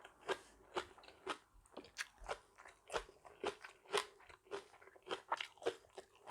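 A person chewing crunchy food close to the microphone, with crisp crunches about twice a second.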